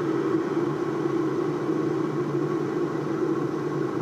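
DeLonghi Distinta digital electric kettle heating about 800 ml of water just short of the boil, a steady hiss from the water over its concealed flat element; pretty quiet.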